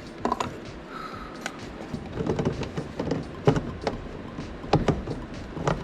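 Scattered light clicks and knocks of PEX tubing and fittings being handled and fitted.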